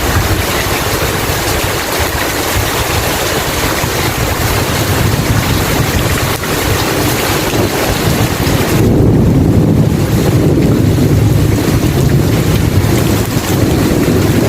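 Steady, heavy rain hissing. About nine seconds in, a deep rolling rumble of thunder swells up under it and carries on.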